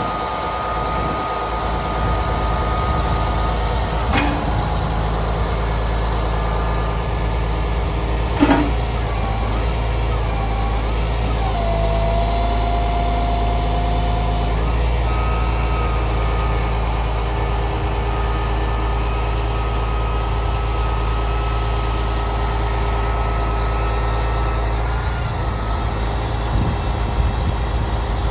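Sterling L9500 crane truck's diesel engine running steadily, with a whine that wavers and steps in pitch over it. Two short knocks, about four and eight seconds in.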